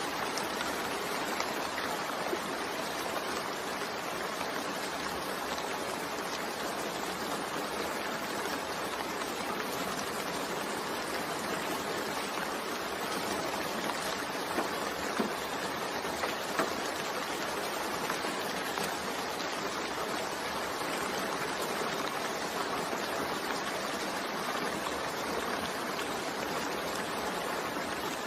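Steady rain falling, an even hiss with a few scattered louder drops ticking in the middle.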